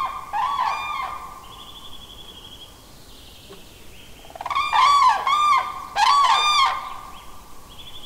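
A bird calling in runs of three or four loud, repeated arched notes, clearest and loudest in the second half. A second bird gives a short, high, even trill twice, once early and once near the end.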